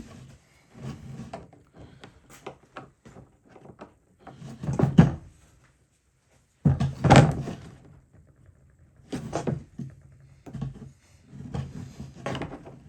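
Irregular knocks, thumps and scraping of parts being handled and fitted in a small enclosed space. There are two louder bursts, about five and seven seconds in.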